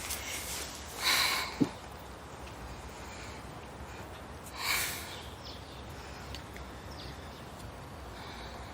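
Two short breathy exhales, about three and a half seconds apart, with a brief soft click just after the first, over faint steady background noise.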